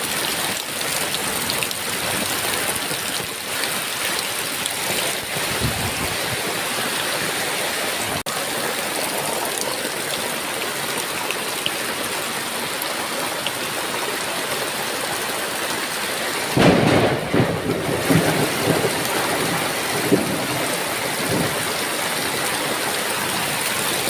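Heavy rain falling steadily. About two-thirds of the way through, a sudden clap of thunder rumbles on in rolling pulses for several seconds.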